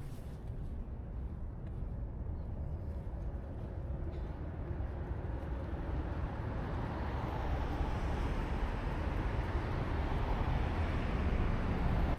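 Steady low rumble of passing vehicles, growing louder over the second half and cutting off suddenly at the end.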